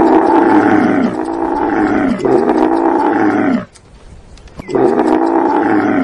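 Dromedary camel calling in loud, drawn-out groans, each falling in pitch at its end. Three run together over the first three and a half seconds, and after a pause of about a second another begins near the end.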